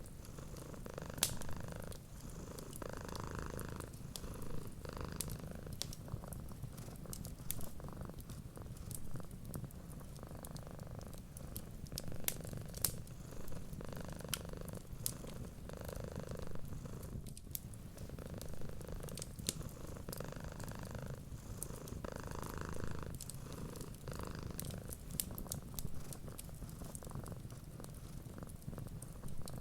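Cats purring steadily, the purr swelling and easing with each breath, with the sharp pops and crackles of a wood fire scattered throughout.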